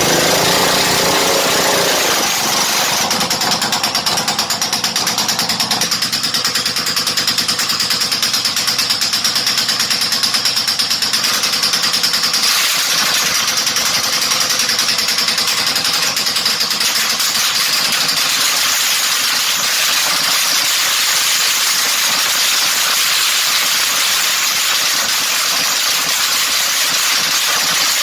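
Rebuilt single-cylinder small racing engine running steadily and loudly on a dyno.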